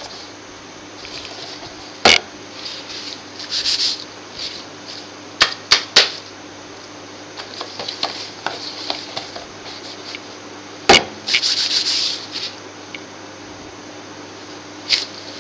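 Gloved hands handling a small cardboard webcam box: about six sharp taps and knocks as it is turned over and set down, the loudest about two seconds in and near the middle, with short bursts of cardboard rubbing and sliding between them. A steady low hum runs underneath.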